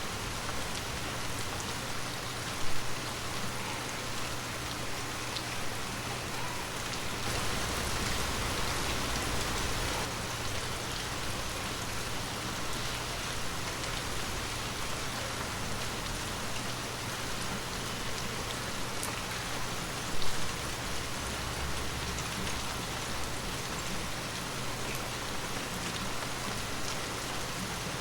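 Heavy rain falling steadily on a hard surface, an even hiss, with two brief louder thumps, one about three seconds in and one about two-thirds of the way through.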